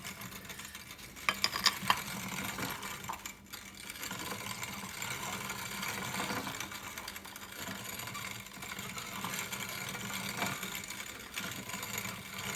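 Hand-cranked steel-plate grain grinder turning steadily, its grooved plates crushing small flaxseed with a continuous gritty grinding. A few sharp clicks come about a second and a half in.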